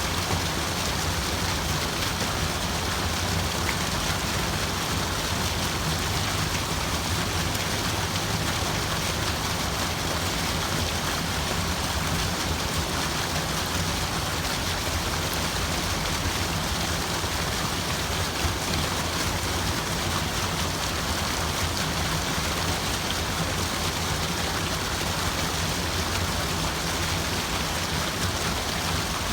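Steady water sound, an even, unbroken hiss of splashing water.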